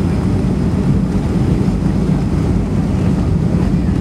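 Steady low rumble of airflow and engines heard on a Boeing 757 flight deck, with no change in level.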